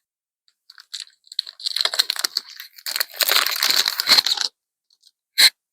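Foil wrapper of a Yu-Gi-Oh booster pack being ripped open and crumpled: dense crackling for about three seconds, then one short click near the end.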